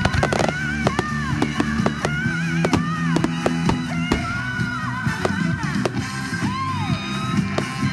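Fireworks going off in quick succession, many sharp bangs and crackles throughout, over loud music with singing.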